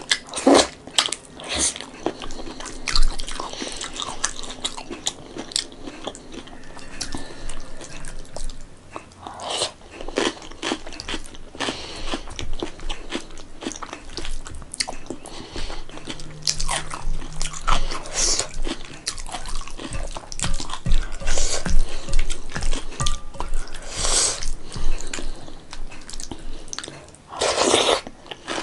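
Close-miked chewing and crunching of mouthfuls of rice with broccoli and potato curry, eaten by hand, with wet mouth sounds. Louder crunches come irregularly, every few seconds.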